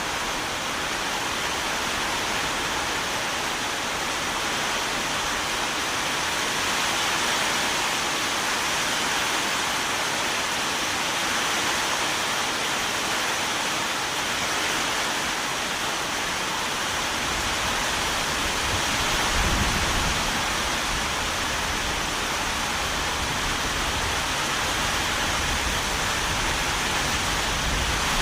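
Rain falling steadily, an even hiss. About two-thirds of the way through, a low rumble comes in under it and stays.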